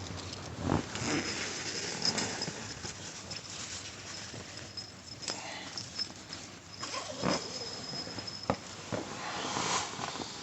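Rain falling on the roof of a food truck, a steady hiss, with scattered knocks and rustling nearby.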